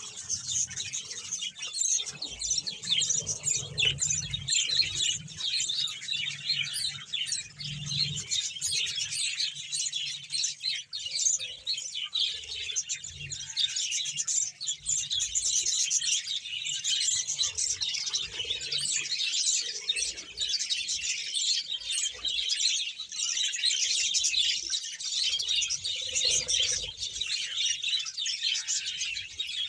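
A large colony of budgerigars chirping and chattering together in a dense, continuous twitter.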